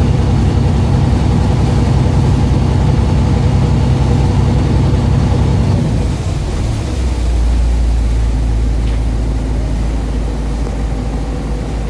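A fishing boat's engine running steadily; about six seconds in its note drops to a lower, deeper drone.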